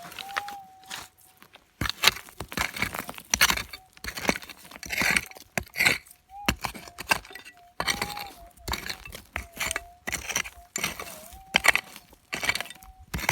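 Metal detector giving a wavering threshold tone while stony ground is dug, with rocks and gravel knocking, clinking and scraping in quick irregular strokes from about two seconds in; the detector's tone comes back between the strokes.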